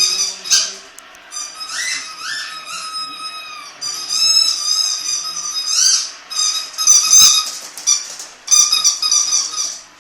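Jack Russell terrier whining in repeated high-pitched squeals, some sliding upward in pitch, coming in bouts with short gaps between them.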